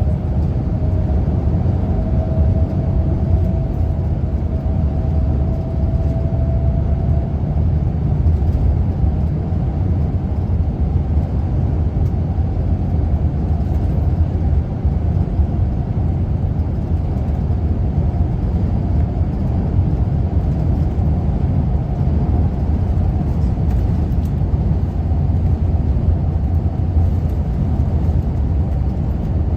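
Strong wind buffeting the microphone as a steady low rumble, with a faint steady hum above it that rises slightly in pitch over the first several seconds.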